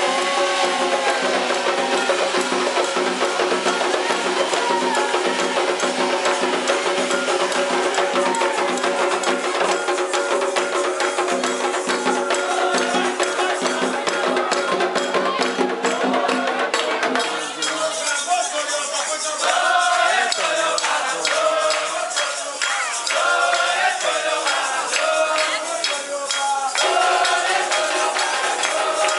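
Afro-Brazilian ceremonial percussion music with rattles and a tapping wood-block-like rhythm, with voices mixed in. About halfway through, the steady low tones drop out and the texture changes.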